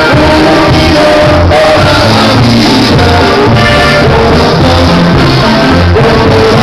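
Live norteño band music, loud and continuous, with a steady bass line and singing.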